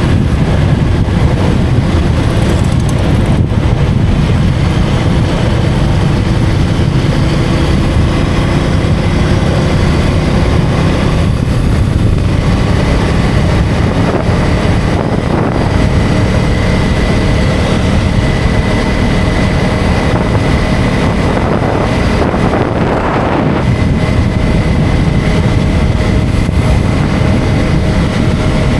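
KTM 250 Duke's single-cylinder engine running at road speed, mixed with heavy wind noise on the microphone and tyre and road noise.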